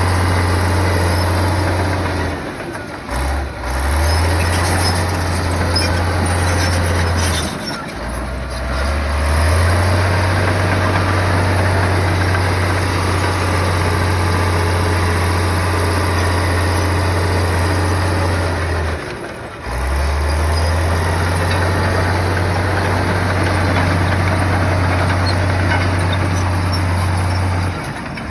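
Heavy earthmoving machine's diesel engine running, a deep steady drone whose low note dips and picks back up three times: a few seconds in, about eight seconds in, and near twenty seconds in.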